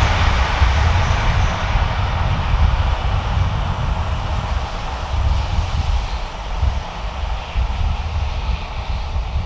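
A train running past on the mainline, its noise gradually fading as it draws away, over a heavy low rumble.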